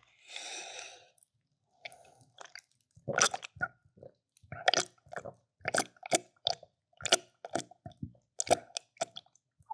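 A person chewing a mouthful of food close to the microphone: a short soft breath at first, then from about three seconds in a steady run of moist, smacking chews, two to three a second.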